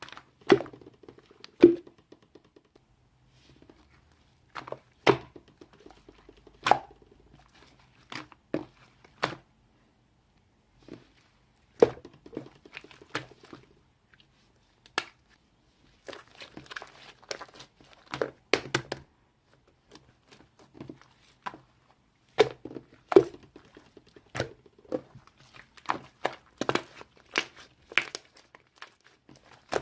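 Close handling noises: irregular sharp taps and clicks, some in quick clusters, with soft crinkling and tearing between them.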